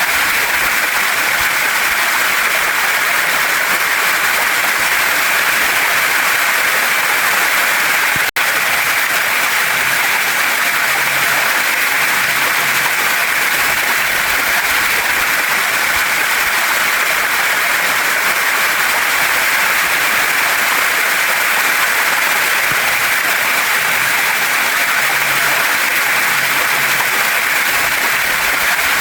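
Steady rush of a waterfall and stream running over rocks. It is even and unbroken apart from a momentary cut-out about eight seconds in.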